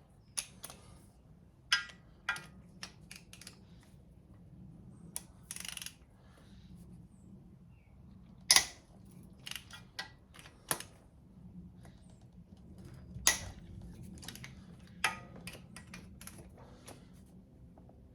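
Scattered sharp metallic clicks and knocks of hand tools on the exhaust manifold bolts of a Mazda MX-5 mk1 engine as they are worked loose, with a short rasping burst about five seconds in and a faint steady hum beneath.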